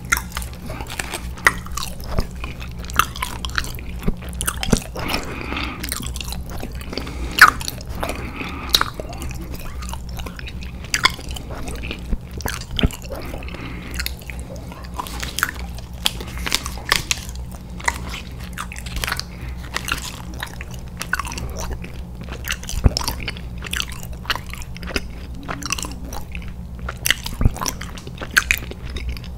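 A person chewing and biting candy close to the microphone: irregular sharp crunches and mouth clicks, over a steady low hum.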